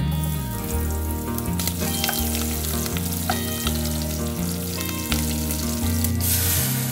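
Food frying in a pan, a steady sizzling hiss that grows louder about six seconds in, under background music with a moving bass line.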